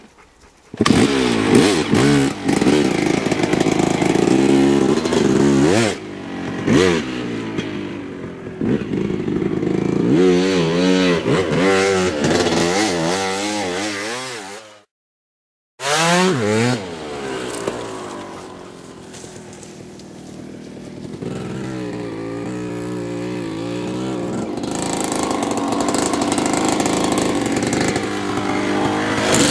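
Suzuki RM250 two-stroke motocross bike, its engine revving up and falling back again and again as it is ridden round a dirt track. It cuts to dead silence for about a second near the middle, drops quieter around twenty seconds in, then grows steadily louder toward the end.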